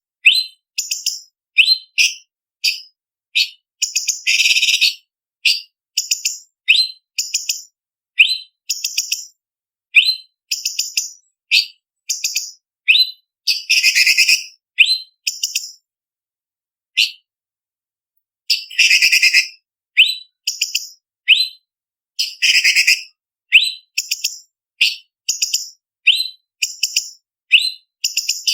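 Orange-bellied leafbird (cucak cungkok) singing: quick, sharp, high whistled notes in short phrases about every half second to second, broken by several longer harsh chattering bursts. The song pauses for about two seconds just past the middle.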